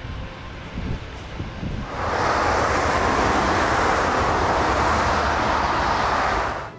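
Airbus A350-900 jet engines roaring as the airliner passes close, with a low rumble first. The steady roar comes in suddenly about two seconds in and stops suddenly near the end.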